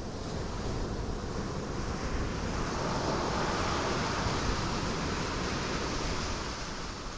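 Ocean surf breaking on rocks: a steady wash of wave noise with a low rumble, swelling to a peak about midway and easing off again.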